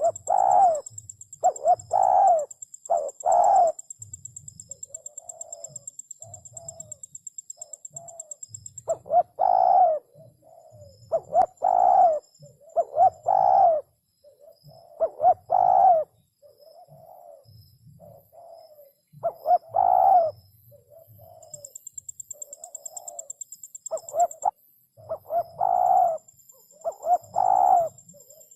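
Spotted dove cooing: repeated phrases of low coos, some loud and close together, with softer coo notes in between.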